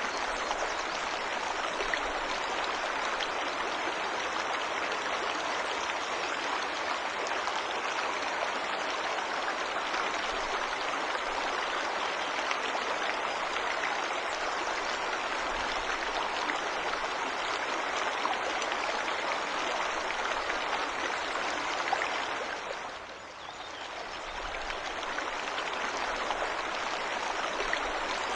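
Waterfall and stream water rushing in a steady, even hiss. It dips briefly about 23 seconds in, then comes back to full level.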